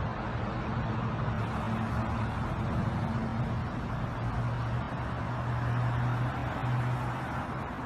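Steady vehicle running sound: a low engine drone over road noise, with the drone's pitch stepping up slightly about halfway through.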